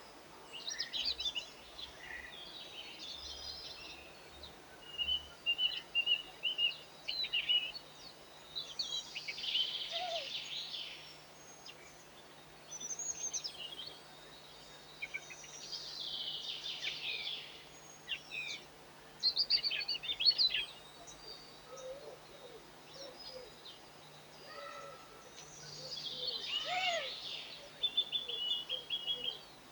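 Several small songbirds chirping and calling in irregular bursts, with a few short trills among the calls.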